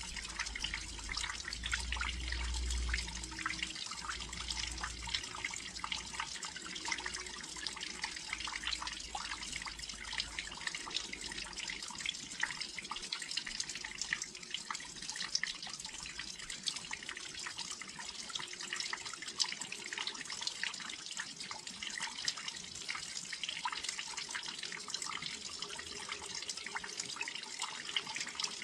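Steady rain falling and dripping close by on a windowsill, a dense, even patter of small drops. A low rumble lies under it for the first few seconds.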